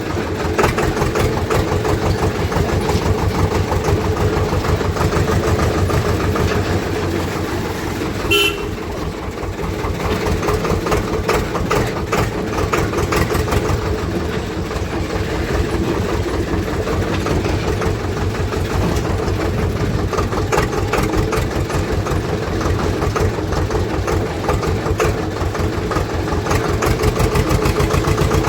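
Swaraj tractor's diesel engine running steadily while driving, with a short horn toot about eight seconds in.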